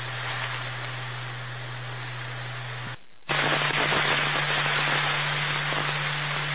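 Police scanner radio static: an open channel hissing with a steady low hum and no voice. It cuts out for a moment about three seconds in, then comes back louder as the next transmission keys up.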